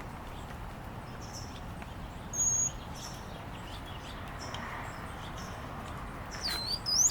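Small songbirds chirping over steady background noise: faint short high chirps, one brief high whistled note about two and a half seconds in, and a louder sweeping call near the end.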